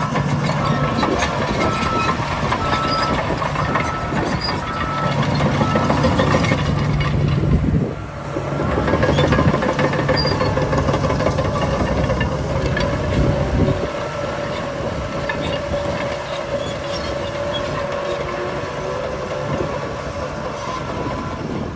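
Heavy diesel earthmoving machinery at work: a bulldozer and a dump truck. A truck's reversing beeper sounds over the first few seconds. The engine labours louder in the middle, dips sharply once, then settles to a steadier, quieter running near the end.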